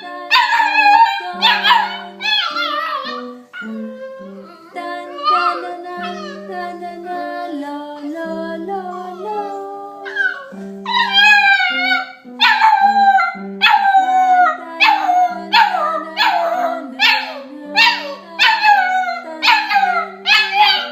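Shar pei–shepherd mix puppy howling along to a piano being played, its high cries sliding down in pitch over the piano's notes. From about halfway the howls come one after another, roughly one a second.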